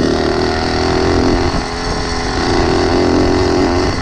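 Small engine of a motorized bicycle running steadily under way, easing off slightly about halfway through and then picking up again.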